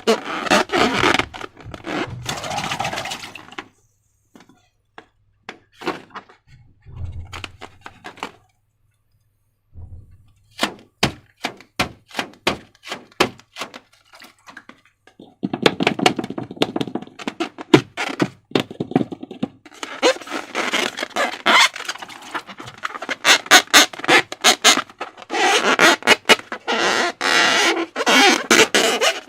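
Slime being squeezed and worked by hand, with sticky squelching crackle and sharp clicks. It comes in dense stretches at the start and through the second half, with scattered clicks and a quieter pause in between.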